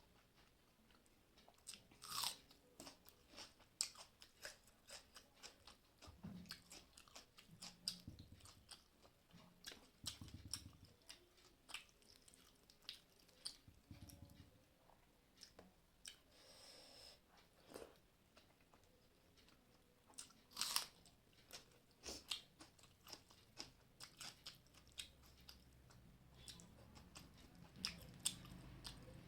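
A person eating, faint chewing and crunching with many small clicks and smacks of the mouth.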